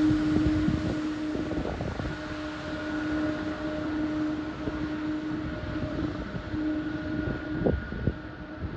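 Jet airliner engines running with a steady hum under a broad rush that slowly loses its high end, while wind buffets the microphone.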